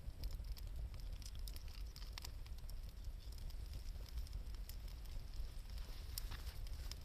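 Wood campfire crackling: scattered sharp snaps and pops over a steady low rumble.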